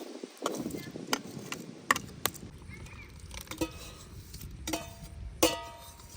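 Metal utensil knocking and scraping against a metal cooking pot, a quick run of sharp clinks; the two near the end ring briefly.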